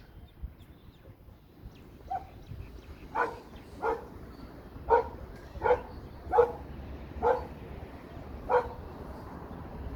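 An animal calling: about eight short, sharp calls, mostly under a second apart, starting about two seconds in.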